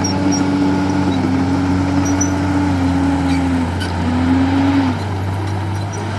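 Heavy diesel engine running steadily, most likely the Komatsu D51EX bulldozer's. It is a continuous low drone with a wavering higher tone that dips and rises, then fades and drops a little in level about five seconds in.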